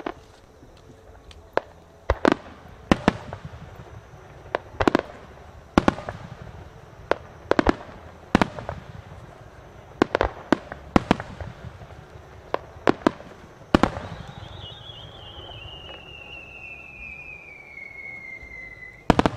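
Aerial firework shells bursting overhead in a string of sharp bangs, irregularly spaced about one every second or less. Near the end a long whistle falls slowly in pitch, then a final loud bang.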